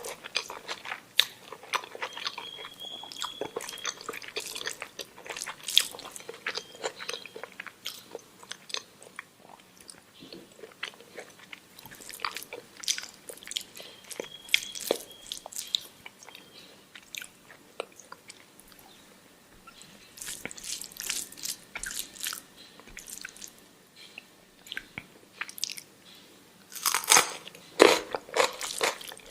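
Close-miked eating of omelette with rice: steady chewing with many small wet mouth clicks and bites, rising to a louder run of bites and chews near the end.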